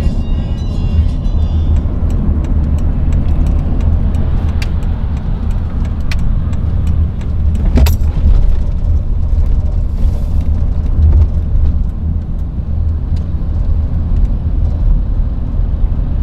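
Car running at highway speed, heard from inside the cabin: a steady low road and engine rumble, with a few sharp clicks.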